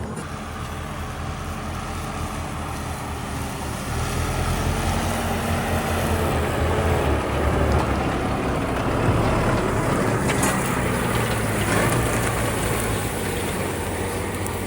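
Bizon combine harvester running, its engine hum under the noise of the machine, growing louder over the first half.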